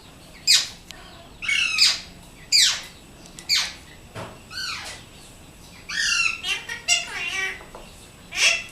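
Pet Alexandrine parakeet squawking: a series of about a dozen short, sharp calls, each sliding down in pitch, some coming in quick clusters.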